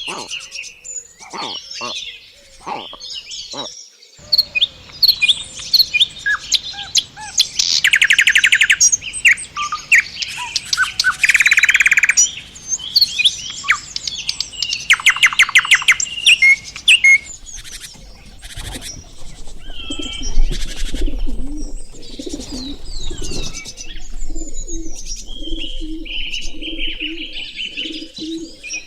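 Several birds calling and singing: sharp chirps, whistled notes and fast trills, with the loudest trills about a third of the way in and again near the middle. In the last few seconds a low note repeats steadily under higher calls.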